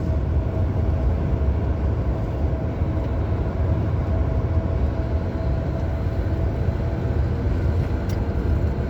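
Steady road and engine noise inside a moving police car on the highway: a low, even rumble of tyres and drivetrain with a faint steady hum.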